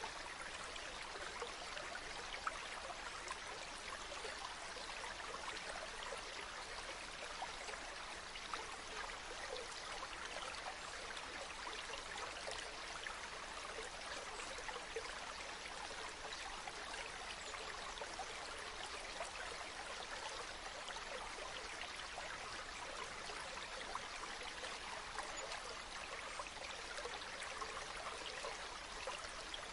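Steady running water, like a stream, as an even hiss with fine splashing speckle and no change in level.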